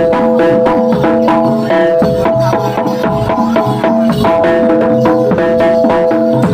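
Loud traditional percussion ensemble music in a Javanese gamelan style: metallic pitched notes repeated over drums on a fast, even beat.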